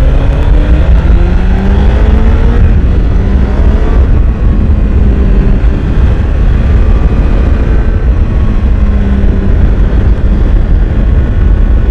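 Honda CBR1000RR SP inline-four engine on its stock exhaust, heard on board while riding, under heavy wind rush. The revs climb for the first few seconds, drop about four seconds in, then hold fairly steady.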